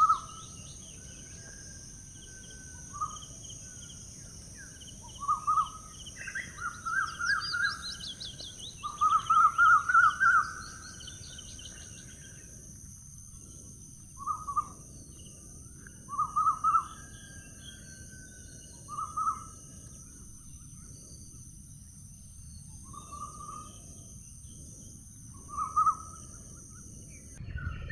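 Wild birds calling: short chirping phrases repeated every couple of seconds, with a longer fast trill about nine to eleven seconds in, over a steady high-pitched hiss.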